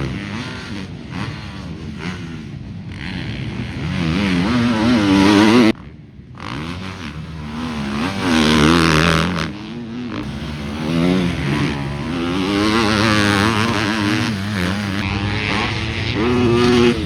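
Motocross dirt bikes at full throttle on a track, the engine pitch repeatedly climbing and dropping through the gears as bikes pass. The sound cuts off abruptly about six seconds in and picks up again with another bike.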